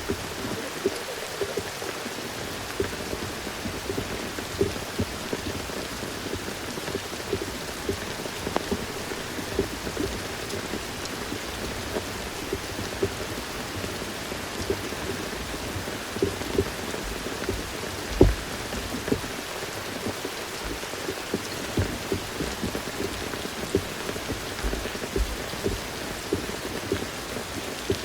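Steady rain falling in a forest, with many individual drops pattering close by and one louder drop or thud about 18 seconds in.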